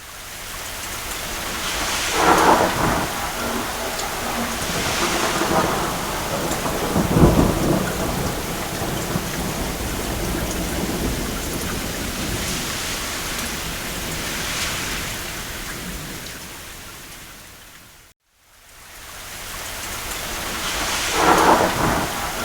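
Steady heavy rain with several rolls of thunder, the deepest about seven seconds in and another near the end. The sound cuts to silence for a moment about eighteen seconds in, then fades back up.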